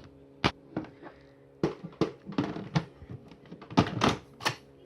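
Plastic clicks and knocks from a Miele Blizzard CX1 vacuum cleaner being handled as its filter and parts are fitted back in place, about nine separate knocks.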